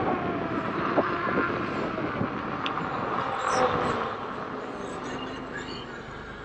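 Electric unicycle being ridden along a trail: an even rush of wind and tyre noise with a few small knocks, easing off as the ride slows.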